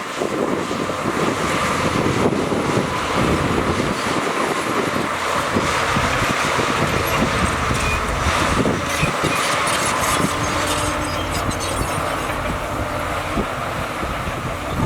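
Heavy diesel earthmoving machinery working: a steady engine rumble with rattling and faint metallic squeaks and clicks, thickest in the middle.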